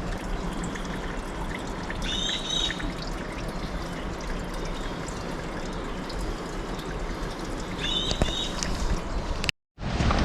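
Steady rush of flowing stream water. A bird gives two short chirps, about six seconds apart. The sound drops out for a moment near the end.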